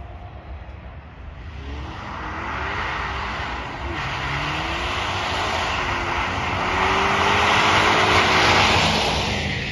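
Subaru Impreza's flat-four engine revving up and down as the car slides sideways on snow, with a rushing hiss of tyres spraying snow. It grows louder as the car nears, loudest near the end as it passes close by.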